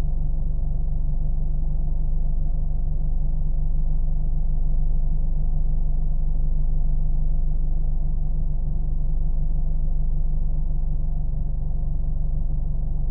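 Car engine running steadily: an even, low droning rumble with most of its weight in the deep bass and no changes in speed.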